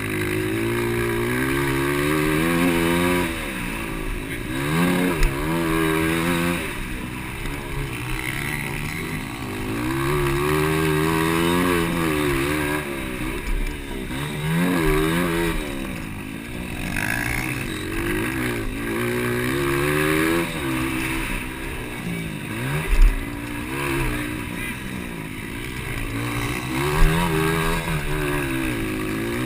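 200cc motocross bikes racing, their engines revving up and falling back again and again as they ride the track, with a couple of short thumps.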